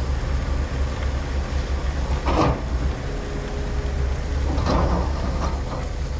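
Heavy diesel construction machinery running with a steady low rumble, with two short louder noises about two and a half seconds in and near five seconds in.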